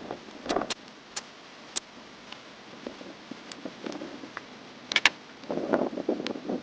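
Scattered sharp clicks and taps of hand tools and engine parts being handled, with a short stretch of rustling near the end.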